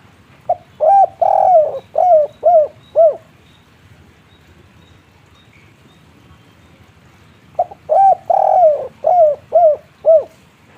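Spotted dove (tekukur) cooing in the 'kuk 3' style. It gives two phrases about seven seconds apart. Each phrase is a short lead note, a coo, a long coo, then three short coos.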